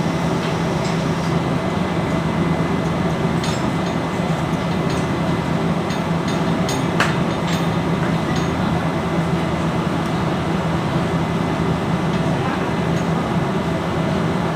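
Steady, loud machinery drone with a low hum, with a few sharp metallic clicks and clinks of hand tools on metal parts, clustered around the middle.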